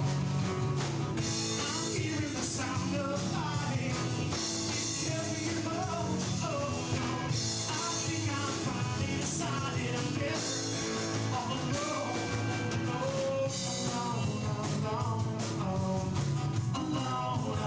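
Rock song with singing over guitar and drums.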